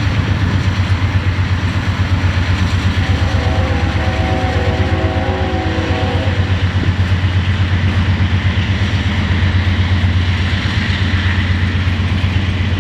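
Diesel locomotive engine running with a loud, pulsing low rumble as a train moves through. About three seconds in, several steady tones sound together for about three seconds, like a locomotive horn chord.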